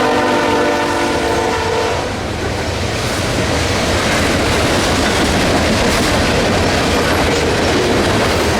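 Train horn blowing a chord of several steady tones that stops about two seconds in, then the steady rumble and clatter of the train rolling past on the rails.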